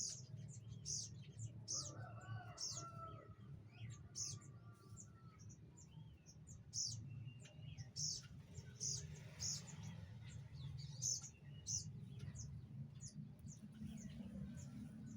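Small birds chirping in an aviary, giving short, high chirps about once or twice a second. A longer, lower call sounds from about two seconds in and lasts a few seconds, over a steady low hum.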